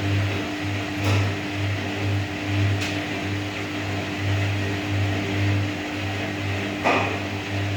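Whirlpool washing machine running: a steady motor hum with a low drone that pulses a few times a second, and a brief swish about a second in, near three seconds in, and near the end.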